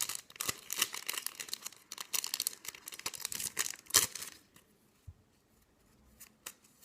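Foil booster pack wrapper being torn open and crinkled for about four seconds, ending in one sharp snap, followed by a few faint ticks.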